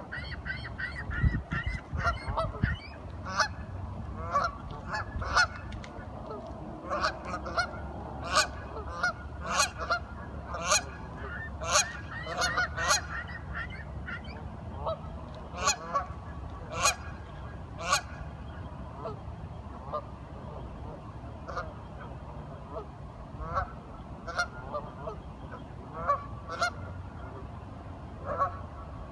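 A group of ducks calling, many short quacks overlapping and coming thick and fast in the first half, then more spaced out. A steady low rumble runs underneath.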